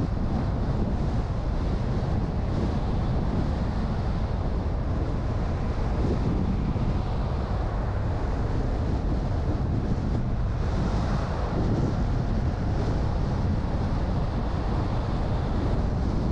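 Car driving: a steady low rumble of road and wind noise. A brief brighter hiss rises about ten seconds in, then settles back.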